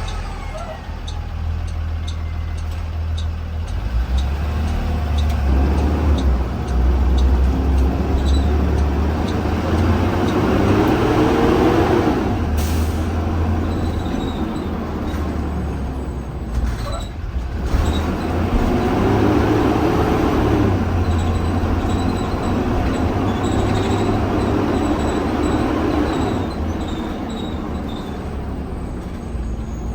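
Blue Bird Vision school bus heard from inside the cabin while under way: a steady low engine rumble, with the engine note rising as the bus speeds up, twice. A brief hiss cuts through about twelve seconds in.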